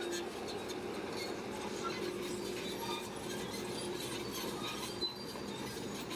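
Shantui crawler bulldozer working: a steady machine noise with light metallic clinks and short squeaks from its steel tracks.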